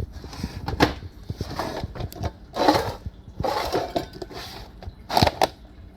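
Rummaging through stored pet supplies and packaging: irregular rustling and crinkling with sharp knocks and clatters, several loud handling bursts.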